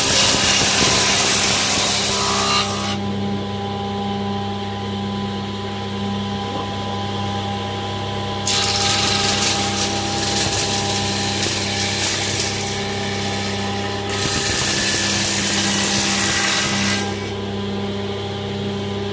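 An electric woodworking machine runs with a steady motor hum. Three times it gives a long, loud hiss of cutting noise as wood is worked through it: at the start, for about five seconds in the middle, and again for about three seconds.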